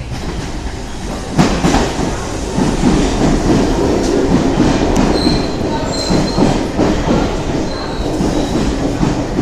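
London Underground C stock electric train running on the rails: a loud rumble of wheels that swells sharply about a second and a half in, with short high-pitched wheel squeals coming and going in the second half.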